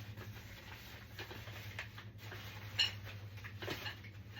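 Faint clicks and light taps of hard playard parts being handled during assembly, with two sharper clicks a little before the three-second mark and shortly before four seconds, over a low steady hum.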